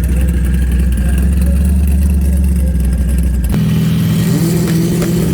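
High-performance car engine running at a drag strip: a steady deep rumble for the first three and a half seconds, then an abrupt change to an engine whose pitch slowly rises.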